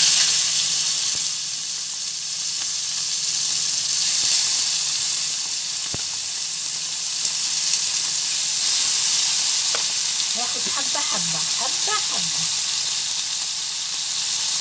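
Small pieces of spiced liver sizzling hard in very hot oil in a frying pan, the sizzle jumping up as the first pieces hit the oil. The oil is kept very hot to sear the liver quickly so its juices stay in. A single sharp tap about six seconds in.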